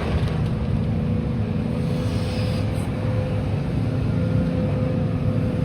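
Demolition excavator's diesel engine running at a steady, low drone, with no impacts or crunching of rubble.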